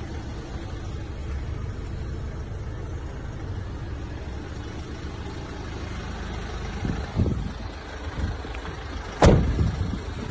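Renault Master's 2.3 diesel engine running with a steady low rumble, like idling. A few knocks come about seven seconds in, and a single sharp thump, the loudest sound, a little after nine seconds.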